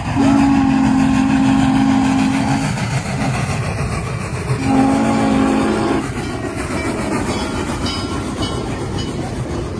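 Norfolk & Western 611 steam locomotive's chime whistle blowing two long blasts, the second shorter and starting about four and a half seconds in, over the steady rumble of the train running.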